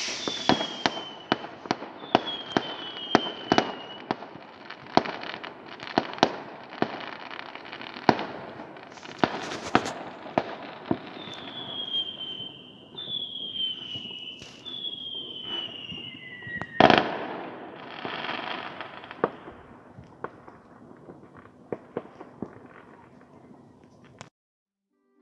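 New Year's fireworks: a steady run of bangs over crackle, with several short whistles falling in pitch, the loudest bang about two-thirds of the way through. The sound cuts off suddenly near the end.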